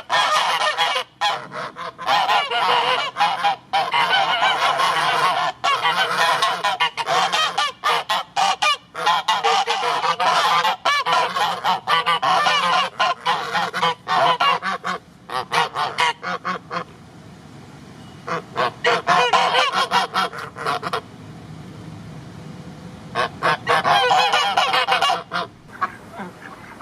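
A flock of geese honking, many calls overlapping in a continuous din. About two-thirds of the way through the honking drops away, and two shorter bursts follow.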